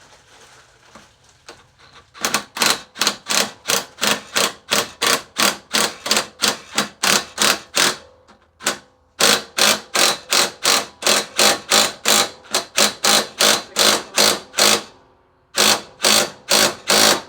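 Hand file rasping on metal in steady back-and-forth strokes, about three to four a second, starting about two seconds in and pausing briefly twice.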